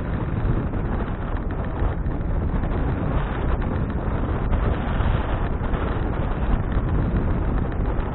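Wind buffeting an action camera's microphone while cycling, a steady low rumble with road and tyre noise under it.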